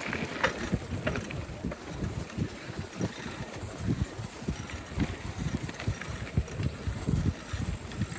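Wind buffeting the microphone in irregular low gusts, mixed with the rumble and bumps of a bicycle riding over a dirt trail.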